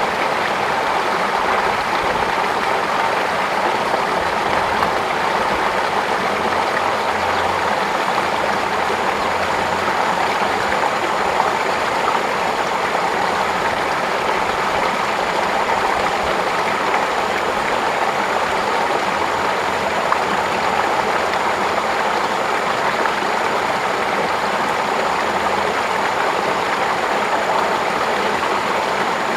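Water flowing steadily, a continuous even rush like a stream or channel of water running.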